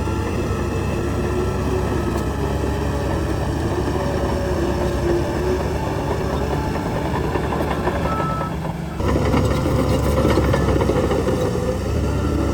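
Heavy diesel engine of earthmoving machinery running steadily, dipping briefly and then coming back abruptly a little louder about nine seconds in.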